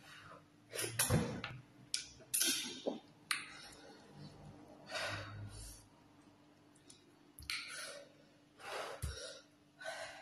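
Close-miked eating sounds of fufu with slimy ogbono soup: wet chewing and lip smacks in short bursts every second or two, with breaths between.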